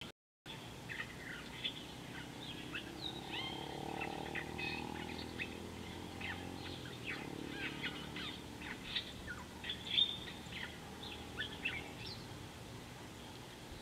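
Wild birds chirping and calling in quick, scattered short high notes, several overlapping, with a faint low hum underneath for a few seconds in the middle. The sound cuts out for the first half second.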